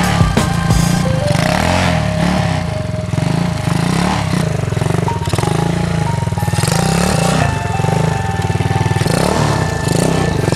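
Polini XP 4T 110 pit bike's four-stroke engine revving up and down again and again, over background music.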